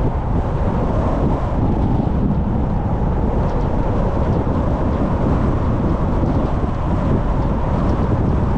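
Steady driving noise of a car on the road: low tyre and road rumble mixed with wind, with wind buffeting the microphone.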